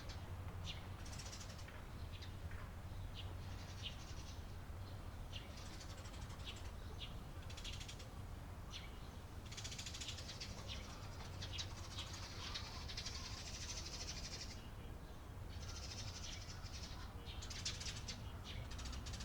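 Eurasian tree sparrows chirping: many short, high chirps throughout, thickening into dense bursts of chattering several times. A steady low rumble lies beneath.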